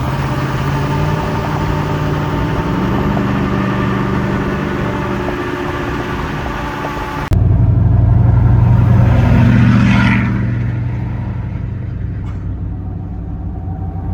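A car engine running under way, with the pitch rising as it accelerates. About seven seconds in it cuts abruptly to a louder stretch where the engine pulls harder, then eases off.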